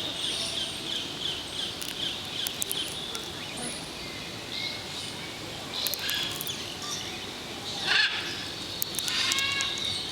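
Birds chirping over a steady, pulsing high trill, with a louder bird call about eight seconds in and another shortly after.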